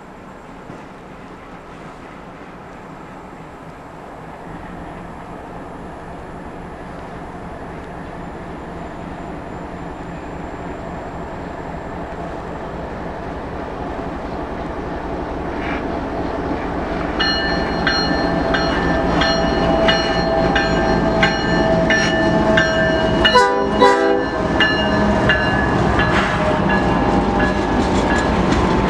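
Canadian Pacific freight train approaching and growing steadily louder, its locomotive horn sounding from a bit past halfway through, then the engine and wheels passing close with a burst of clatter near the end.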